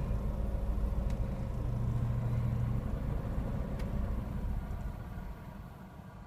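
Honda Street's engine idling, then dying away about five seconds in: it stalls by itself.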